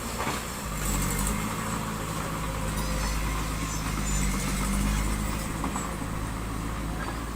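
Heavy diesel engine of earthmoving machinery running steadily, revving up about a second in and easing back near the end, with a short clatter just after the start.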